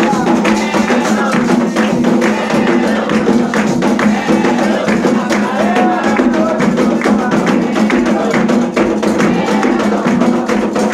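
Candomblé drumming: a steady, dense rhythm of hand drums and percussion with voices chanting over it.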